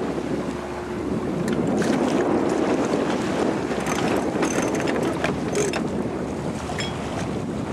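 Wind buffeting the microphone over water rushing past the hull of a small sailboat under sail, with scattered crackling splashes through the middle.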